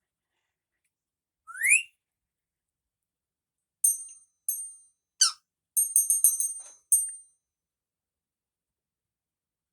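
Pet parrot whistling: one rising whistle, then, about four seconds in, a run of short, very high beeps and chirps in quick succession lasting about three seconds.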